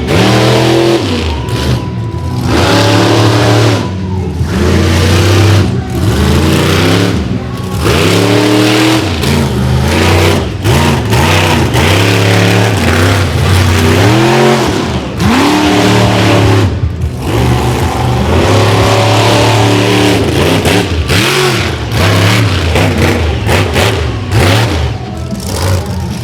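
Monster truck engine revving hard again and again, its pitch climbing and dropping every second or two.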